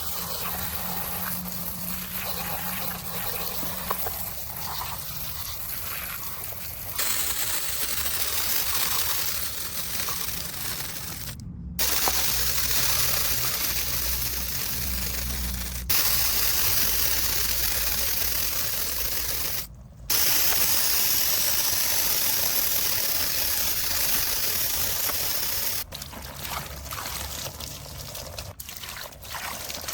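Water spraying and trickling over a miniature model car as it is rinsed: a steady hiss that breaks off and resumes abruptly a few times.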